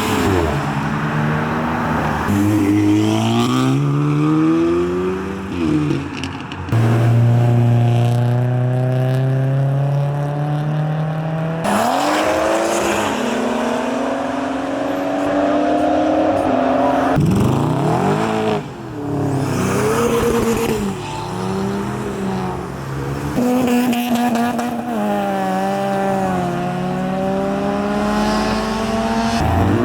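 A succession of car engines accelerating past one after another, their pitch rising as they rev up, with one car holding a steady low engine note for several seconds partway through.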